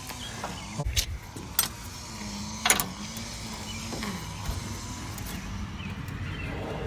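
A few sharp clicks and knocks of the Jeep's distributor cap and spark-plug wires being handled, then a steady low rumble that builds slightly near the end.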